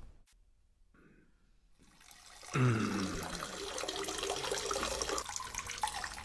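After about two seconds of silence, a low sound drops in pitch. It is followed by a few seconds of liquid splashing and trickling, a comic toilet sound effect of an upset stomach.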